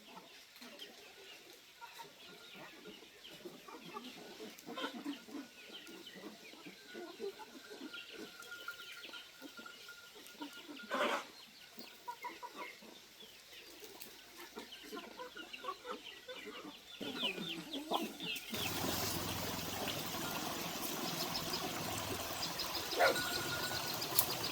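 Chickens clucking and calling, with one louder call about eleven seconds in. A steady rushing noise starts suddenly near the end and carries on under them.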